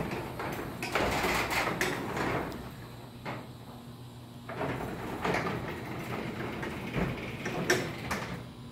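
Sectional garage door rolling in its tracks as it is moved by hand to test the torsion-spring balance. There are two runs of rumbling roller noise with a few clicks and knocks, and a quieter pause between them.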